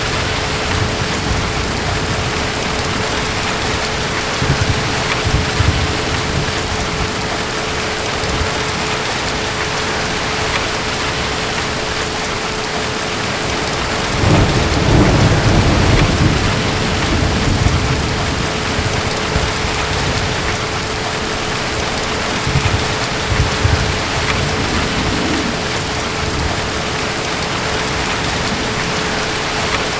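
Steady heavy rain with distant thunder rumbling low, a longer roll about halfway through and smaller ones before and after. A faint steady hum sits under the rain.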